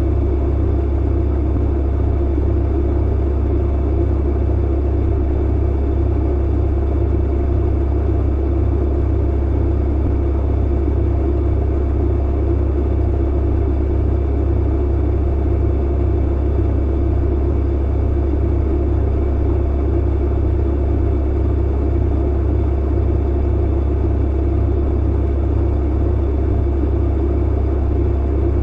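Clothes dryer running, a steady, unchanging low rumble and hum.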